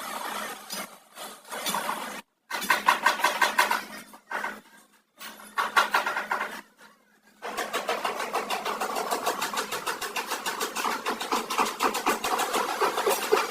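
Car engine cranked in several short tries with silent gaps between them, then catching at about seven and a half seconds in and running steadily.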